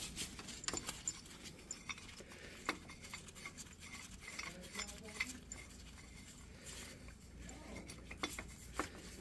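Light metallic clinks, taps and scrapes from steel tools and U-joint parts being handled while a press is repositioned on the axle yoke.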